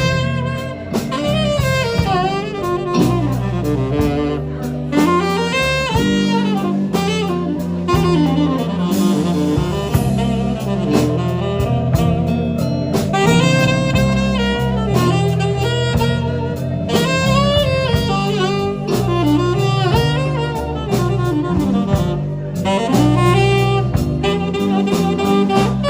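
A live band playing an instrumental solo in a slow blues: a lead instrument wanders through a bending melody over the band's steady backing.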